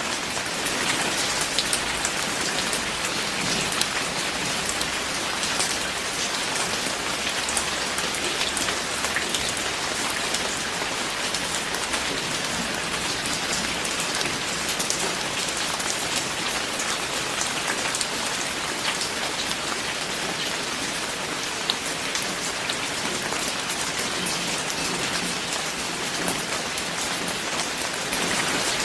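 Steady heavy rain falling, a dense even hiss with many individual drops hitting close by.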